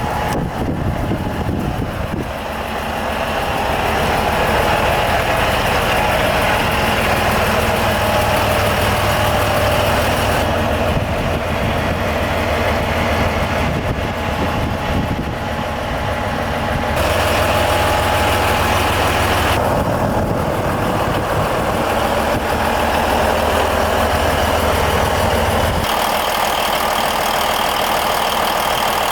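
Volvo D16 16-litre inline-six diesel engine of a Volvo VT 880 truck idling steadily. Its tone changes abruptly a few times.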